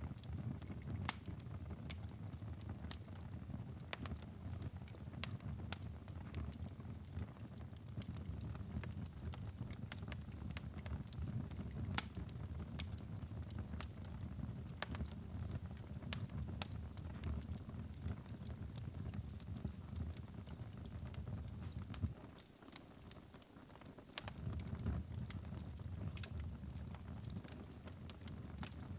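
Wood fire crackling in a fireplace: a steady low rumble of flames with frequent sharp pops and snaps. The rumble drops away for a moment about three-quarters of the way through.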